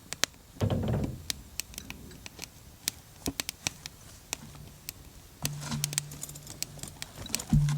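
Small wood fire crackling, with sharp irregular pops and snaps from the burning wood. A short low rumble comes about half a second in, and a steady low hum sets in near the end.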